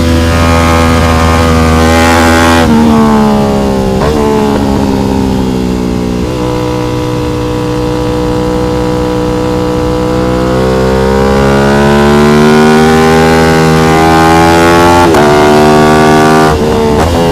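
Aprilia RS660 Trofeo's parallel-twin engine on track: it starts at high revs, shuts off and steps down through downshifts about 3 to 6 seconds in, and runs low and steady through a corner. From about 10 seconds it pulls hard, the pitch climbing, with upshifts near the end.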